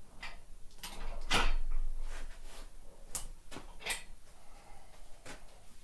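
A series of separate knocks and clicks at uneven intervals, the loudest about one and a half seconds in.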